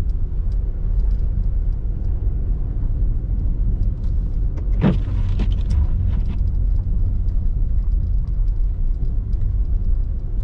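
Car driving on snow-covered streets, heard from inside the cabin: a steady low rumble of engine and tyre noise, with one short squeak about five seconds in.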